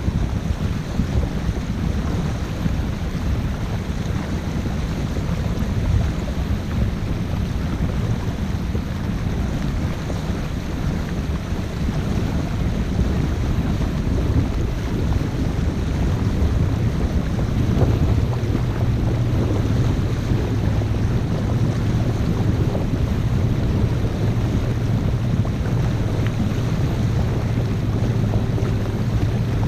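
A motorsailer's engine running under way, a low steady hum that grows stronger a little past halfway through, with wind buffeting the microphone and water rushing past the hull.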